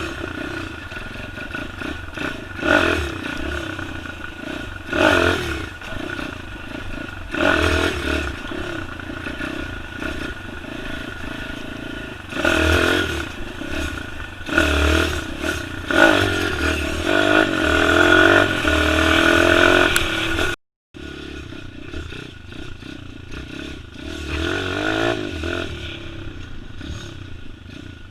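Pit bike engine revving in repeated bursts, its pitch rising and falling as the throttle opens and closes, with rattling from the bike. The sound cuts out for a moment about two-thirds of the way through, then the engine carries on.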